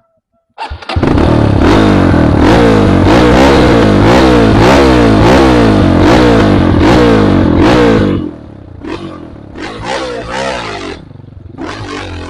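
Trail motorcycle engine revving hard, its pitch rising and falling about twice a second and very loud for about seven seconds. It then drops to a quieter run with smaller rises in revs.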